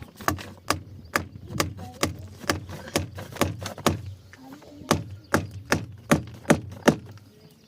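Repeated sharp knocks or strikes, about two or three a second, with a short pause about four seconds in, over a low steady hum.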